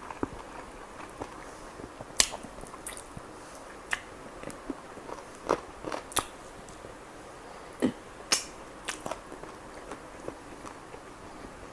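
Close-up eating sounds: a person biting and chewing chicken kalmi kebab, with scattered sharp mouth clicks and smacks, the loudest about two, six and eight seconds in.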